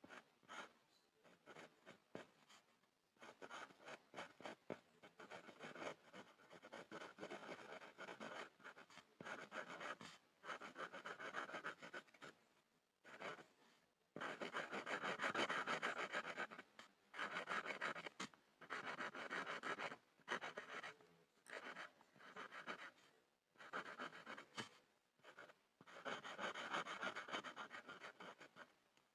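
A pencil scribbling on a board, scratching in irregular runs of one to a few seconds with short pauses between. The longest and loudest run comes about halfway through.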